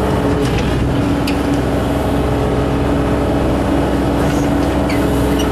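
Bobcat E32 mini excavator's diesel engine running steadily at full throttle, with a few faint clicks over it.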